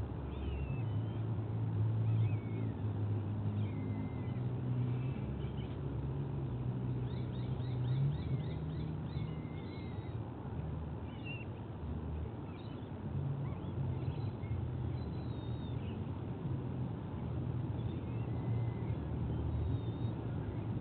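Bird calls: scattered short, high chirps and whistled glides, with a rapid run of short repeated notes about seven seconds in, over a steady low rumble.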